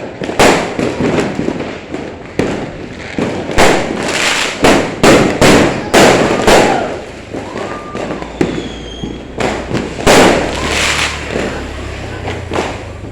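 Fireworks going off: a rapid, irregular string of loud bangs, many close together or overlapping.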